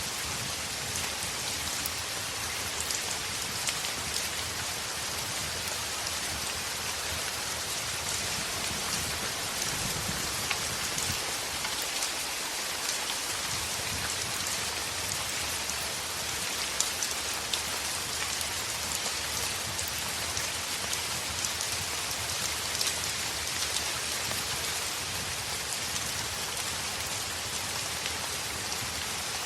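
Heavy rain falling steadily on a window, an even hiss of drops with scattered sharp ticks and pops.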